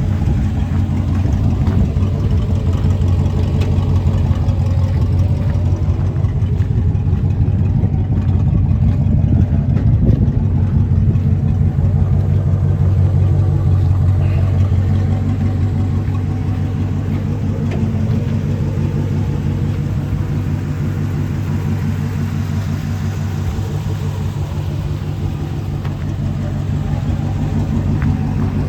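1981 Chevrolet C20 pickup's engine idling steadily.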